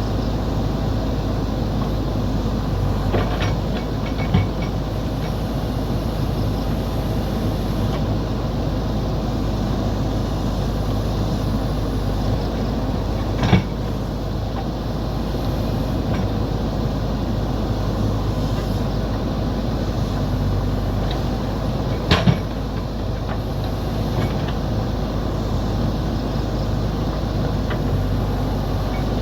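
Heavy machine's diesel engine, a JCB backhoe loader, running steadily during road work with split stone. A few sharp knocks stand out: one a few seconds in, one near the middle and a quick double knock about three-quarters of the way through.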